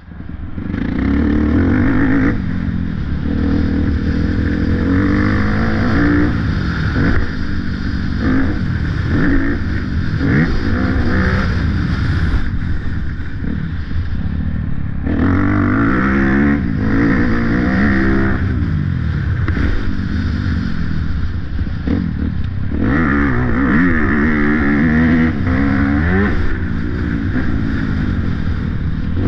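Motocross motorcycle engine running hard, its pitch climbing and dropping again and again as it revs up and is throttled back, with a few stretches of higher revs.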